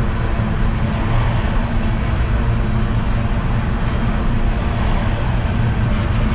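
CSX unit coal train rolling past with a steady, loud low rumble.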